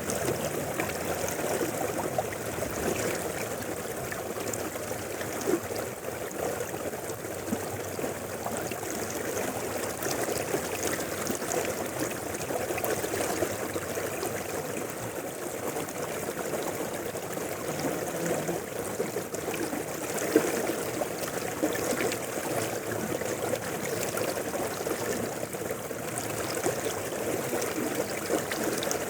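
A river flowing, a steady rush and trickle of water, with two brief louder splashes about five and twenty seconds in.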